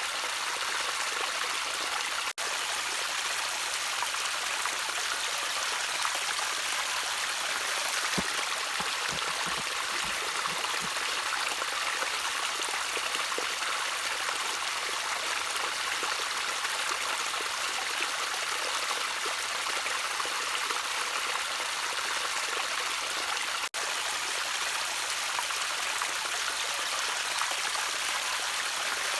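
Gentle trickling water of a small stream, a steady even splashing hiss with most of its energy in the higher pitches, broken by two split-second gaps, a couple of seconds in and near the end.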